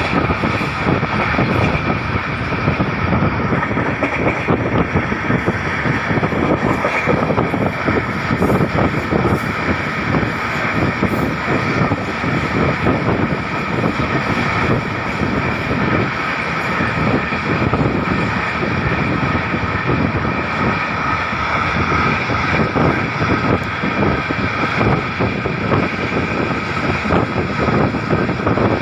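Saurashtra Mail passenger train running at speed: a steady loud rumble of wheels on the rails with a dense clatter, and a steady high whine over it.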